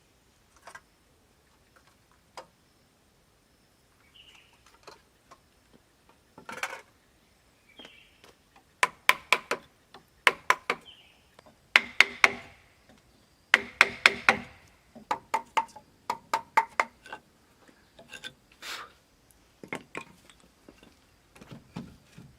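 Sharp wooden knocks and taps in irregular clusters, the loudest and fastest in the middle, some ringing briefly, as wood is struck and worked by hand. Faint bird chirps come between the knocks.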